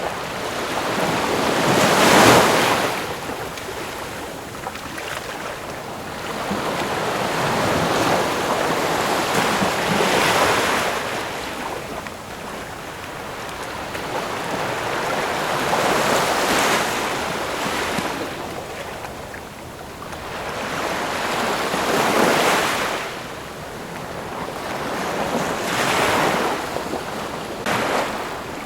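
Ocean waves breaking on a shore, each wave swelling to a rush of surf and fading back, about every four to six seconds.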